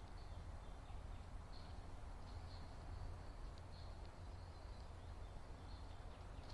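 Faint, short, high-pitched bird chirps at irregular intervals over a steady low rumble of outdoor background noise.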